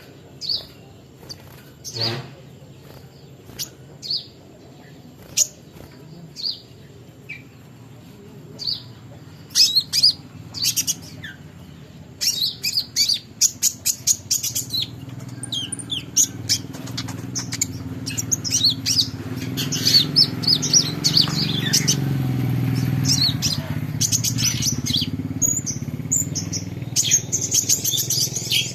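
Small songbird chirping: short, high calls, spaced out at first and coming thick and fast from about halfway. A low rumble, like a passing engine, swells under them in the second half.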